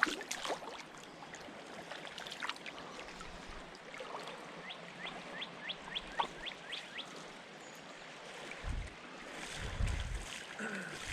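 Creek water running over rocks as a steady rush, with a quick evenly spaced run of about eight short, high rising chirps in the middle and a couple of low thumps near the end.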